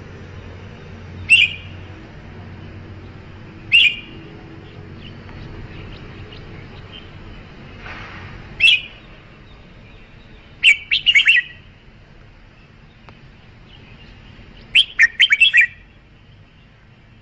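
Red-whiskered bulbul calling: three short single notes a few seconds apart, then two quick runs of several notes each, about eleven and fifteen seconds in.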